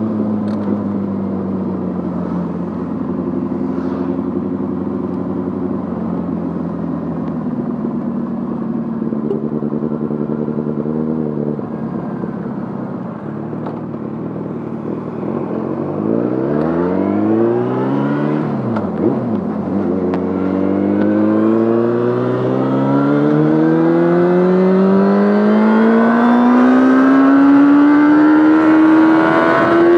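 Yamaha Fazer 600's inline-four engine through a handmade exhaust, heard while riding. It runs at a steady, slowly sagging pitch for about twelve seconds. From about sixteen seconds the revs rise under acceleration, with a brief dip for a gear change around nineteen seconds, followed by one long climb in revs.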